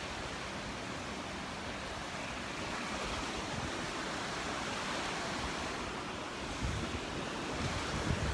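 Gulf of Mexico surf washing onto the beach in a steady wash, with some low rumbling coming in over the last couple of seconds.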